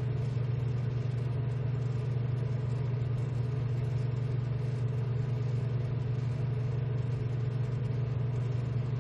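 Steady low machine hum that does not change, with a fainter higher tone above it.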